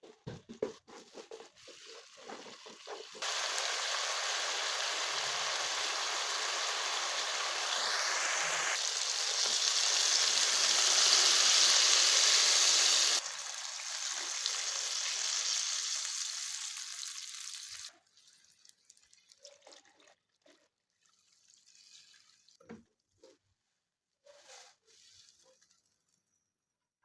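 Water running steadily in a loud, even rush that cuts in suddenly, drops back abruptly partway through and stops; faint light knocks follow.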